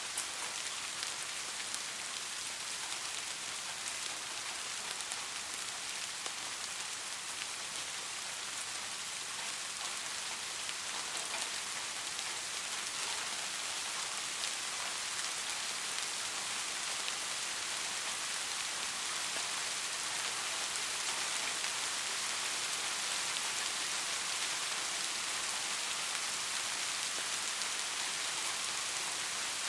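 Steady rain falling on a surface, a dense even patter with fine scattered drop ticks, growing slightly heavier in the second half.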